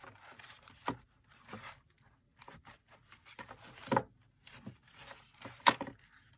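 Paper and card cut-outs rustling and sliding as they are sorted by hand, with a few sharp taps, the loudest near the end.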